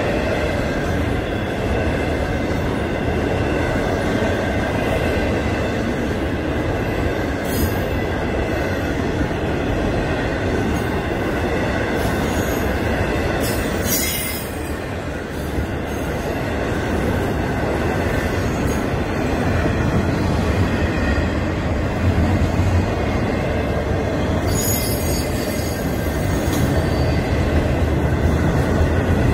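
Florida East Coast Railway intermodal freight train rolling steadily through a grade crossing, its wheels on the rails making a continuous rumble. There are a few brief high wheel squeals. The sound grows louder near the end as a locomotive comes by.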